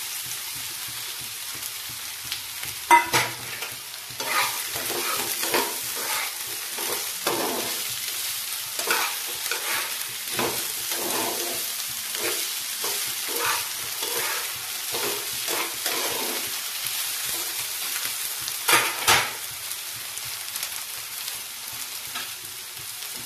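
Cut potato pieces sizzling in hot mustard oil in a frying pan, turned with a spatula that scrapes and taps against the pan, with a sharp knock about three seconds in and another toward the end.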